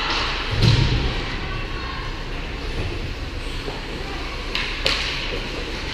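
Ice hockey play in a rink: a heavy thud about half a second in, like a body or puck hitting the boards, and two sharp clacks of stick and puck near the end, over background chatter.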